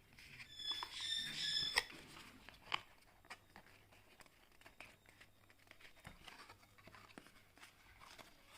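Small plastic packaging being handled: a brief high-pitched squeak about half a second in, then scattered light clicks and taps.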